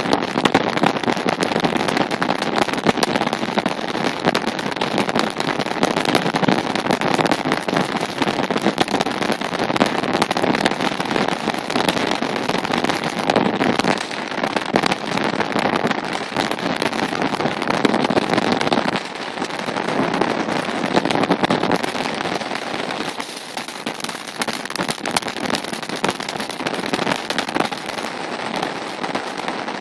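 Steady, crackling rush of riding noise from a moving bike, with wind and road noise on the microphone. It eases somewhat about nineteen seconds in.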